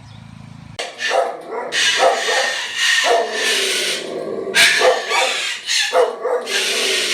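A steady low hum cuts off under a second in. Then a Moluccan cockatoo screams loudly in a run of harsh, drawn-out calls, each about a second long.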